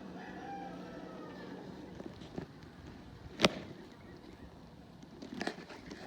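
A rooster crows once near the start, over a steady low hum of honeybees that fades out. About halfway through comes a single sharp knock, the loudest sound, followed by scattered clicks and rustling near the end.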